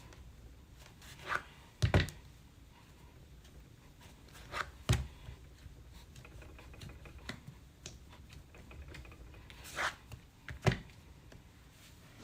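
Knocks and thumps of things being handled and set down on a work table while clay slabs are worked by hand: a double knock about two seconds in, single knocks near five and near eleven seconds, and a brief scrape just before ten seconds.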